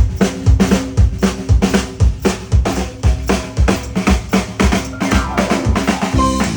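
Live band playing a drum-led rock groove: kick and snare strike steadily about twice a second over sustained bass and guitar notes, and a higher melodic guitar line comes in near the end.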